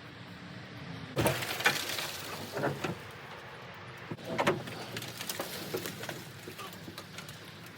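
Loud metal clanks and knocks as a pickup truck's steel bed shifts and comes off the frame, in clusters about a second in and again around four seconds in, with smaller knocks after.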